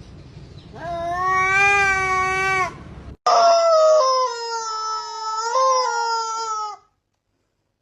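A cat yowling in two long drawn-out calls. The first lasts about two seconds at a steady pitch; the second is longer, starts higher and slides down, then cuts off suddenly.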